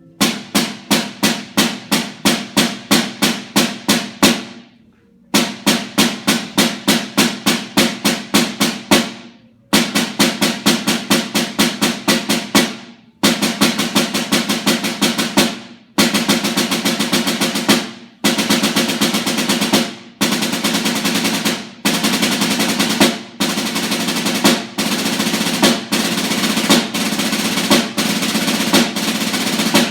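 Snare drum playing the 13-stroke roll rudiment over and over, starting slow with separate strokes and speeding up. Each phrase grows shorter and denser until the strokes blur into a smooth roll, with brief breaks between the rolls.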